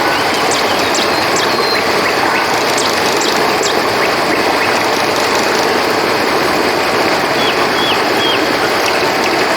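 Steady rush of a flowing river, with short high chirps from small night creatures over it, a quick run of them near the end.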